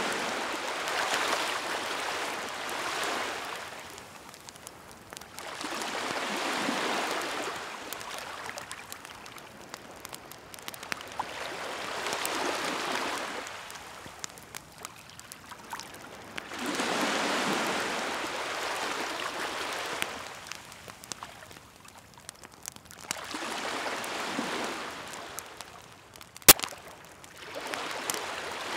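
Waves washing ashore in slow surges about every five to six seconds, with a wood bonfire crackling in small snaps throughout and one sharp, loud pop near the end.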